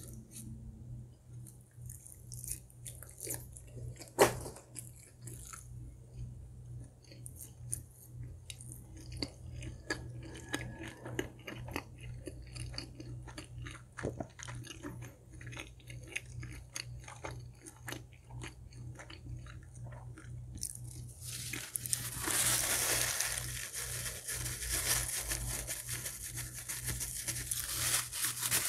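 Close-miked biting and chewing of crispy fried food: many small crunches and clicks, one sharp loud crunch about four seconds in, and a denser, louder stretch of crunching over the last several seconds.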